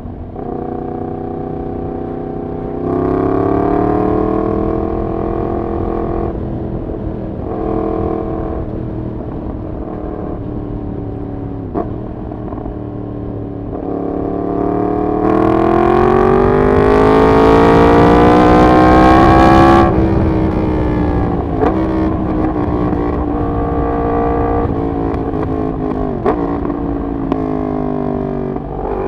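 Yamaha MT-10's crossplane inline-four, straight through a de-catted full exhaust system, pulling through the gears under riding load, its pitch rising and falling several times. About halfway through a long pull climbs steadily in pitch and is the loudest part, then cuts off suddenly as the throttle shuts, and the engine drops back to lower, steadier running.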